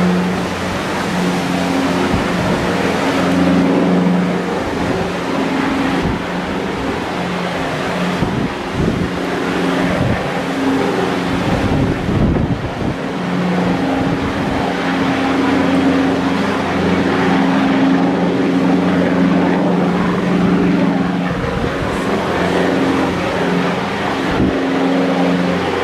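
Rescue helicopter hovering, its engine and rotor humming steadily, under heavy gale wind rushing and buffeting the microphone.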